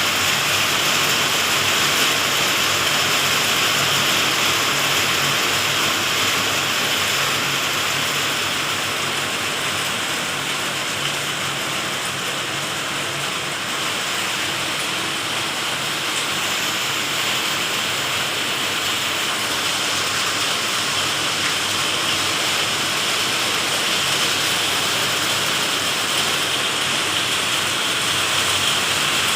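Heavy rain falling and pattering steadily on hard surfaces, a dense even hiss.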